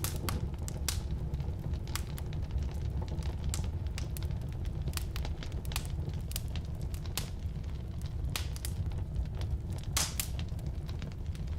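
Firewood burning in a fireplace stove: a steady low rumble of the flames, with irregular sharp crackles and pops, one louder pop about ten seconds in.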